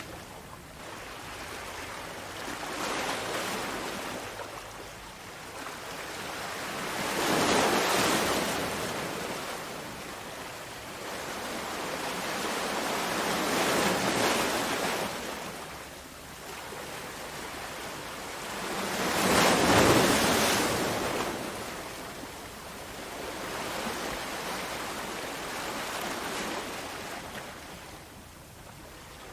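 Sea waves breaking on a shore, the surf swelling and fading in slow surges every six seconds or so, with the loudest break about twenty seconds in.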